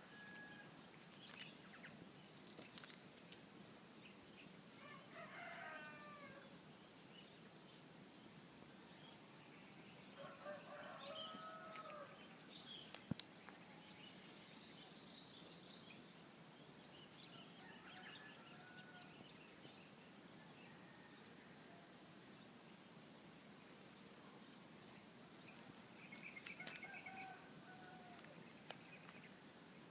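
Faint, distant roosters crowing several times, spread out across the stretch, over a steady high-pitched insect drone. A single sharp click sounds a little past halfway.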